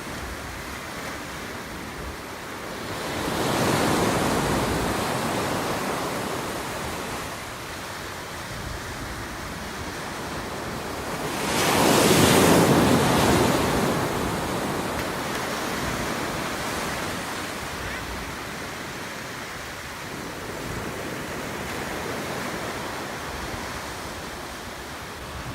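Ocean surf: a steady wash of waves with two waves swelling and breaking, a smaller one about three seconds in and a louder one about twelve seconds in.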